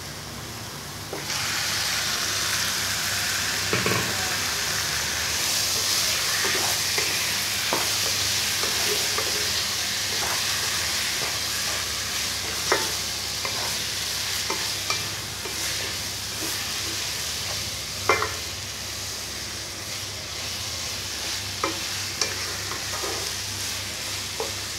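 Raw chicken pieces hitting hot oil and masala paste in a nonstick kadai start to sizzle about a second in, and the sizzle carries on steadily while they are stirred. Scattered clicks and scrapes of a wooden spatula against the pan sound through it.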